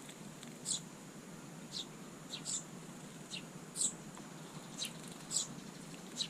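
Small songbirds chirping: short, high chirps, about nine of them, scattered irregularly.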